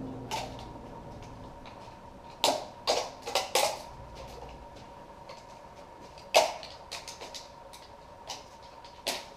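Scattered clicks and knocks of metal engine parts and tools being handled during an engine teardown: a quick cluster of four, then one sharper knock, then two lighter ones, over a faint steady hum.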